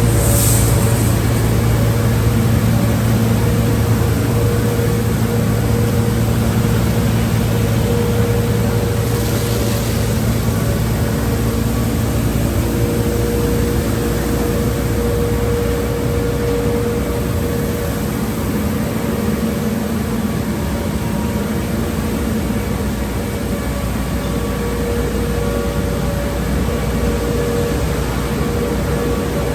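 Automatic car wash tunnel equipment running: a steady machine hum of motors and pumps over a wash of noise, with two short hissing bursts, one right at the start and one about ten seconds later.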